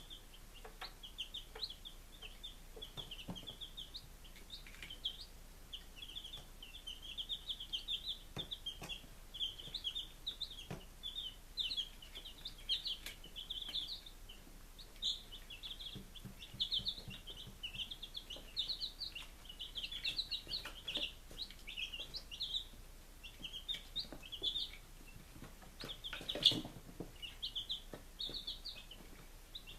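Five-day-old chicks peeping continuously, many short high-pitched cheeps overlapping, with a few light knocks and one louder knock near the end.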